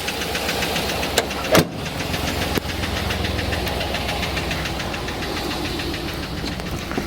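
Chevrolet Suburban V8 running with a rapid, steady lifter tick from a failed DOD (cylinder-deactivation) lifter, which is causing a misfire. Two sharp clicks about a second and a half in.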